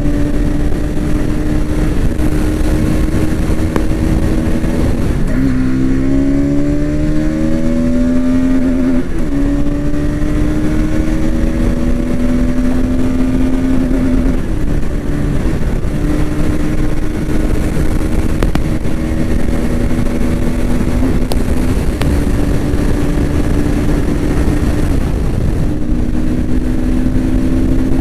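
Bajaj Pulsar NS200's single-cylinder engine running hard at high revs during a top-speed run, its note holding steady. About five seconds in the pitch drops and then climbs again, with a second dip near nine seconds and a brief break around fifteen seconds. A dense rush of wind noise runs underneath.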